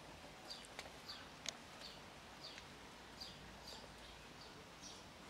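Birds chirping faintly, a string of short high chirps that fall slightly in pitch, roughly two a second, with one sharp click about a second and a half in.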